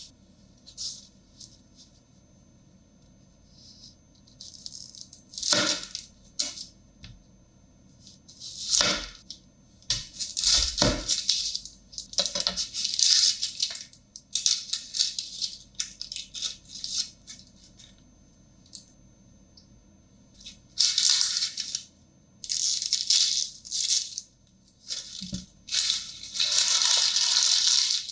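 Kitchen food-preparation handling sounds: irregular rustling and scraping bursts, several lasting a second or more, with a few sharp knocks in the first half.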